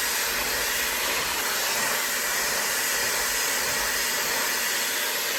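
High-speed (110,000 rpm) hair dryer blowing steadily, a loud even rush of air with a faint high whine above it.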